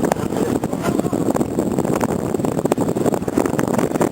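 Steady, noisy rumble on board a ship as it gets under way, with a rough crackle running through it.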